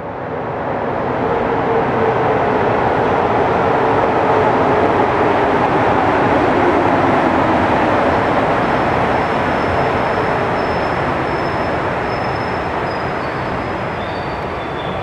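A large vehicle passing close by: a loud, steady noise that builds over the first couple of seconds and then slowly fades, with thin high squeals in the last few seconds.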